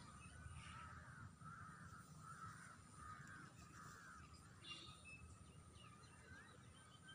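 Faint bird calls: a run of about five repeated notes roughly half a second apart, with a few fainter chirps afterwards, over a low background rumble.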